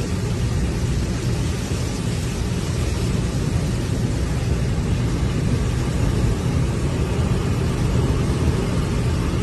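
Hurricane wind blowing hard and steadily, buffeting the microphone with a deep rumble.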